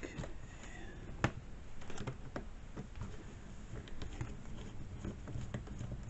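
Scattered light clicks and taps of hands handling chainsaw parts and tools, with one sharper click about a second in.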